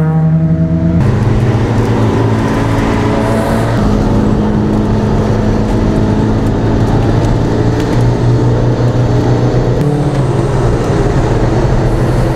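Car engine running at a steady cruise, heard from inside the cabin. Its note shifts pitch in steps about a second in, again around four seconds, and near ten seconds.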